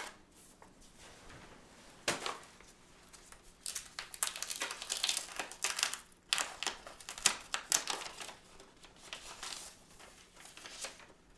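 Paper crinkling and rustling with short tearing sounds, in a run of quick, sharp strokes that come thickest in the middle of the stretch.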